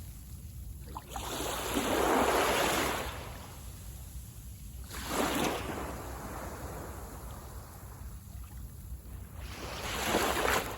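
Sea waves breaking and washing up the beach in three surges, the longest about a second in and shorter ones around five and ten seconds in, over a steady low rumble.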